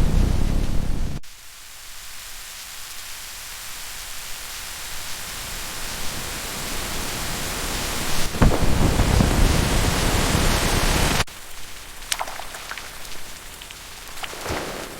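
Rain and thunder: a low rumble of thunder over heavy rain cuts off suddenly about a second in, giving way to a steady rain hiss. A louder surge of rain with a low rumble follows from about eight seconds in and stops abruptly after three seconds, leaving lighter rain with scattered drips.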